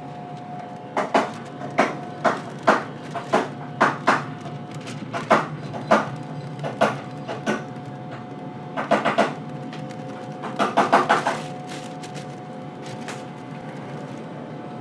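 A series of sharp knocks, roughly two a second and irregular, with two quick runs of strikes, one past the middle and one about three-quarters through, over a steady machine hum.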